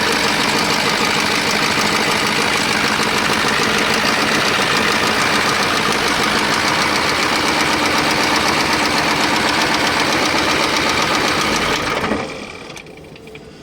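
KAMAZ truck's eight-cylinder diesel engine running loudly and steadily, then cutting off about twelve seconds in. The engine has a fault that pushes combustion gases into its cooling system.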